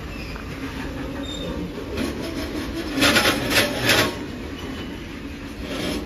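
Loaded freight wagons of an Indian Railways goods train rolling past at low speed: a steady rumble of steel wheels on the rails with rattling bodies. A louder burst of metallic clatter comes about three seconds in and lasts about a second.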